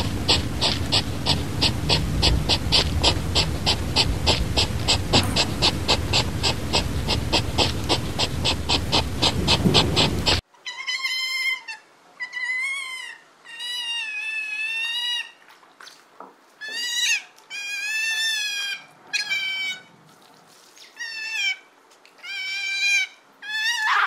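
Sea otters squealing: a run of about ten high, wavering squeals, each up to about a second and a half long, with short gaps between them. Before the squeals, for about the first ten seconds, an even pulsing sound of about four pulses a second over a low rumble cuts off abruptly.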